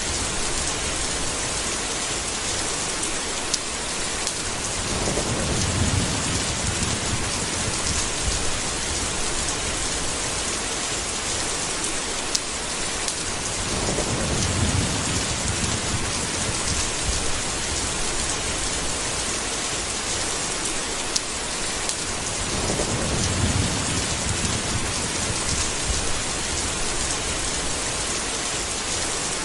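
Steady rain falling in a continuous hiss, with three low rolls of thunder, each a couple of seconds long, about a third, halfway and three-quarters of the way through.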